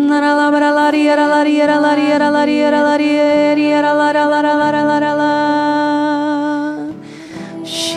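Slow devotional worship music: a singing voice holding long notes over a steady sustained low note. The music dips about seven seconds in, with a brief hiss just before the next phrase.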